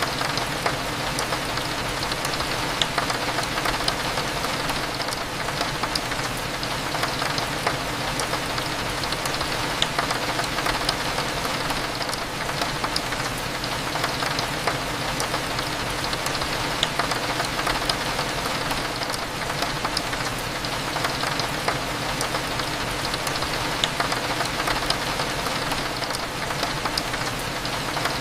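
Steady rain falling against a window, with scattered sharp drop ticks, over a low, even café hum.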